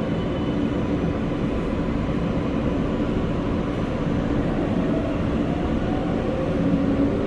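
R143 subway car running between stations: a steady rumble of wheels on rail with the hum of its traction motors, a few steady tones riding over the noise.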